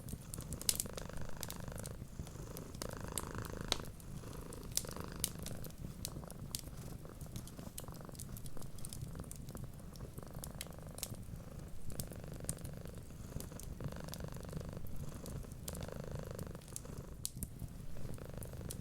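Domestic cat purring steadily, the purr swelling and easing with each breath about every second or two. Sharp crackles and pops of a wood fire are scattered throughout.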